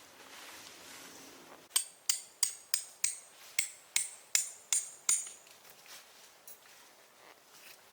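A quick run of about eleven hammer blows, roughly three a second, each with a short metallic ring; they start about two seconds in and stop after about five seconds.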